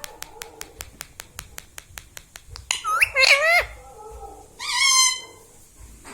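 A run of sharp clicks, about five a second, then two loud, high calls from a ring-necked parakeet, one about three seconds in and one near the five-second mark, each rising and wavering in pitch.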